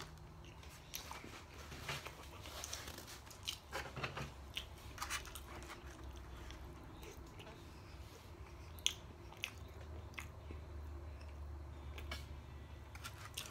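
Close-up chewing of a mouthful of breaded fried chicken strip, with crisp crunches scattered through and a couple of sharp clicks, one right at the start and one about nine seconds in.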